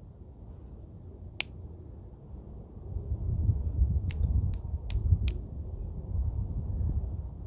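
Flintknapping strikes: a homemade bopper knocking flakes off a stone preform, with one sharp click about a second and a half in, then four quick clicks a little under half a second apart. A low rumble runs underneath and grows louder partway through.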